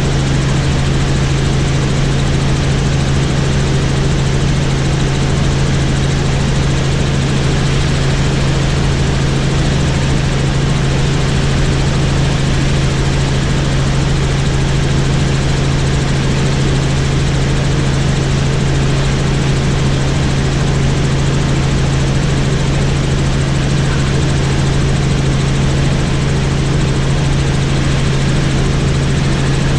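Helicopter in steady flight: a loud, even drone with a strong low hum that does not change.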